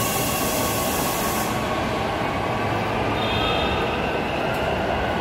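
LRT Jakarta light rail train (Hyundai Rotem) running on its track, a steady rumble with thin high wheel-squeal tones. A loud hiss lasts until about a second and a half in.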